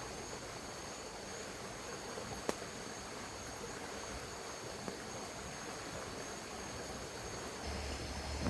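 Night insects trilling steadily at a high pitch over a soft hiss, with a single sharp click about two and a half seconds in.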